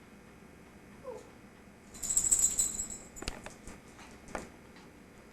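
Pet's metal collar tags jingling and rattling for about a second, starting about two seconds in, followed by a couple of sharp clicks.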